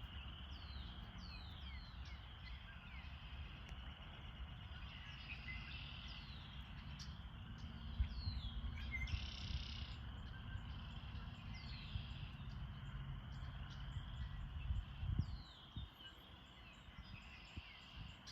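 Repeated short chirps, each falling quickly in pitch, come several times throughout, over a steady high insect chorus and a low rumble. The listener takes the chirper for a squirrel, or perhaps a blackbird.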